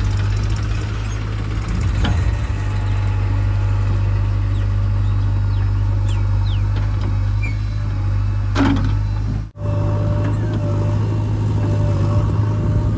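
Heavy diesel machinery engine running steadily with a deep drone, a brief clank about eight and a half seconds in, then the sound cuts out for an instant and resumes.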